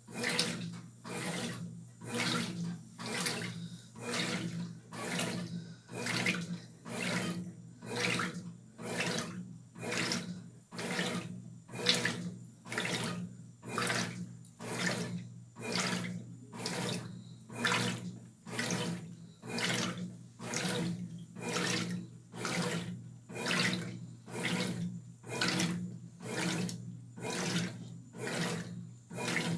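Brastemp 12 kg top-load washing machine agitating its load: water swishes back and forth about once a second over a steady motor hum, starting right at the beginning.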